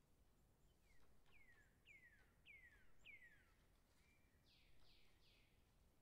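A bird calling faintly: five falling whistled notes about half a second apart starting about a second in, then three quicker, rougher falling notes near the end.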